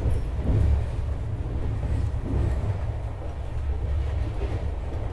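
Steady low rumble of a passenger train running at speed, heard from inside an air-conditioned third-AC coach: wheels running on the rails, with no distinct clickety-clack beat.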